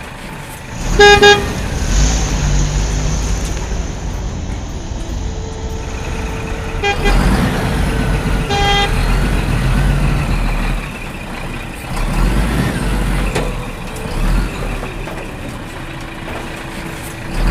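Toy vehicles' horns honking in short, loud bursts, about a second in and twice more around seven to nine seconds in, over a low running rumble and a held tone.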